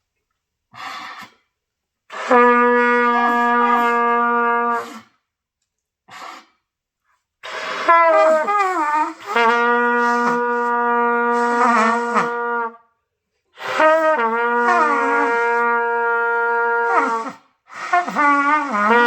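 Beginner trumpet practice. A few short puffs, then three long held notes of two to three seconds each at the same low pitch. Between them come short attempts whose pitch wobbles and slides, as the higher notes fail to come out cleanly.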